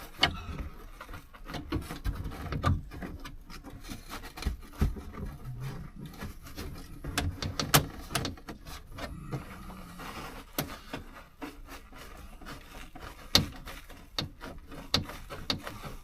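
A worn-out truck headliner being pulled and pried loose in the cab: irregular scraping, crackling and sharp knocks as the brittle panel tears and bumps against the roof and trim.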